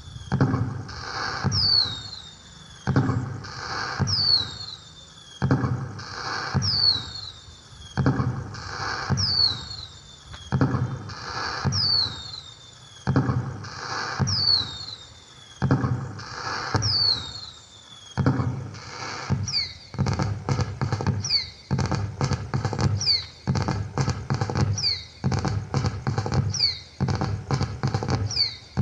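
Pixel cracker LED light's built-in firework sound effect: a falling whistle followed by a burst of crackling, repeating about every two and a half seconds, then speeding up to about once a second after two-thirds of the way through.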